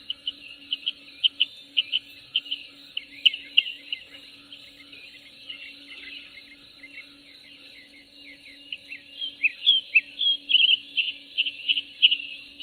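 Small birds chirping in quick runs of short, high notes over a steady insect drone, with a faint low hum beneath. The chirps grow louder and thicker in the second half.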